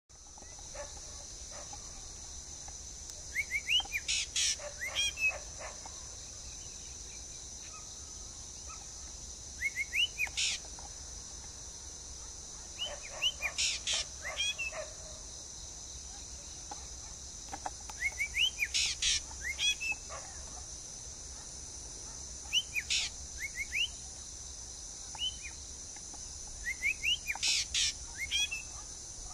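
A bird singing short phrases of quick chirps and rising notes, repeated every four to five seconds, over a steady high-pitched hiss.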